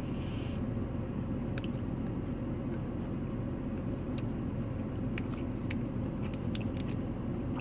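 Chewing a bite of a bison, bacon and cranberry meat bar, a soft bar that bites through easily, with small scattered mouth clicks. A steady low car-cabin hum runs underneath.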